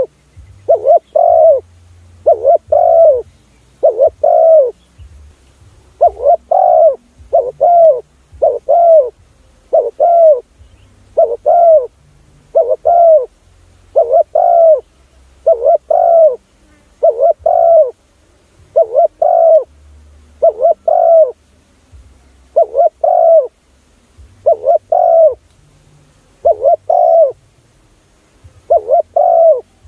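Spotted dove cooing: short arched coos, mostly in close pairs, repeated every couple of seconds. This is a decoy call used to lure wild spotted doves.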